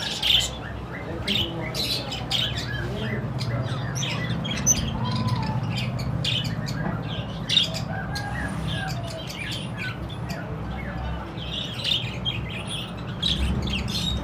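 Budgerigars chirping and squawking in quick, irregular calls with some gliding warbled notes, over a steady low hum.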